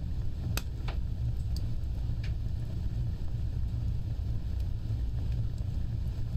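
Fire burning with a steady low rumble of flames and a handful of sharp crackling pops in the first half.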